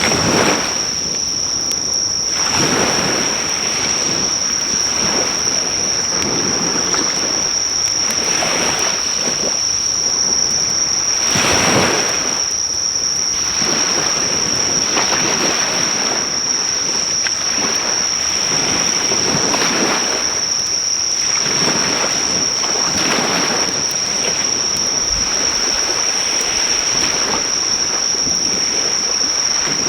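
Waves washing onto the beach close by, a surge every two to three seconds, the biggest about twelve seconds in, under a loud, steady, high-pitched drone of insects calling.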